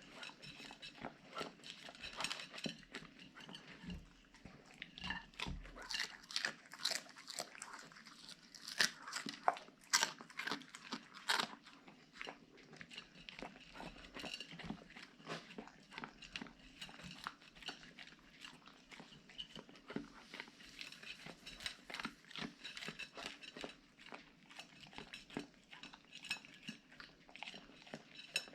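Siberian husky crunching and chewing food, a dense run of irregular crunches and bites.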